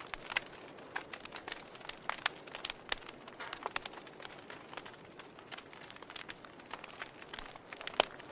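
Campfire crackling: a steady run of short pops and snaps over a soft hiss, with one louder pop about eight seconds in.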